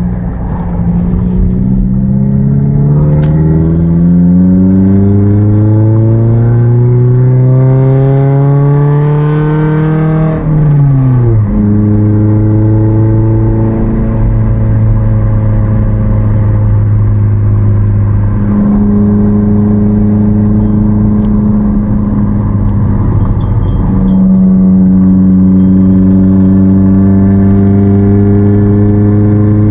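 Exhaust note of a 2006 Chevy HHR's 2.4L Ecotec four-cylinder, breathing through a long-tube header, catless downpipe and Cherry Bomb chamber muffler. It accelerates with rising pitch for about ten seconds, drops sharply in pitch at a gear change, then holds a steady cruise for the rest.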